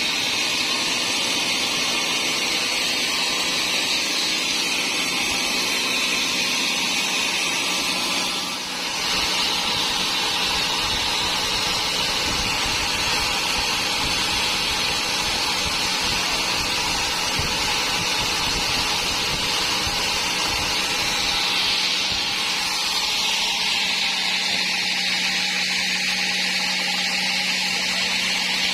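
Sawmill saw cutting dry teak wood, a steady loud high-pitched running noise over a constant low hum, with a brief dip about eight and a half seconds in.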